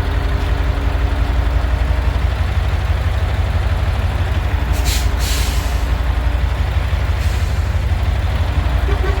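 Heavy truck diesel engine running steadily with a fast, even throb, as the crane truck lifts a roughly five-tonne load. About five seconds in comes a short hiss of compressed air, like an air-brake release.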